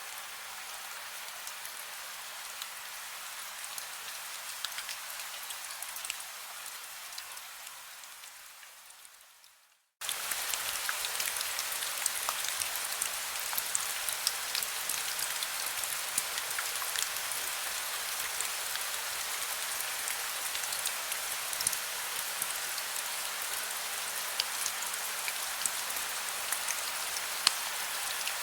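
Heavy rain falling steadily as an even hiss with dense pattering drops. About ten seconds in it fades out to a moment of silence, then cuts back in suddenly and slightly louder, like a splice between two recordings.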